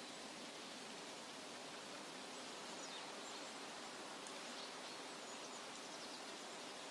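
Forest ambience: a steady, even hiss with a few faint, high bird chirps scattered through it.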